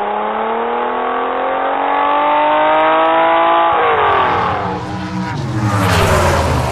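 A motor revving with its pitch climbing steadily for about three and a half seconds. It then falls away as a lower, rougher engine-like sound takes over.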